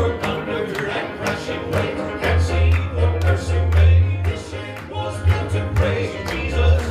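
Southern gospel band playing an instrumental passage: plucked guitar over a strong bass line with a steady beat.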